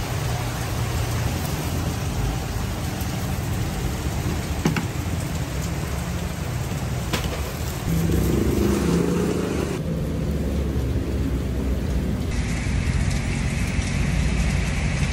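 Heavy rain: a steady, even hiss with a couple of faint clicks. The sound changes abruptly twice.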